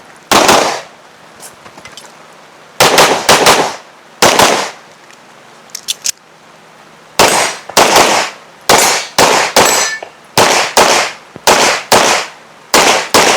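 Gunshots fired in quick strings of two to four during a practical-shooting stage run, about twenty in all, with a pause of a couple of seconds near the middle broken only by a few faint clicks.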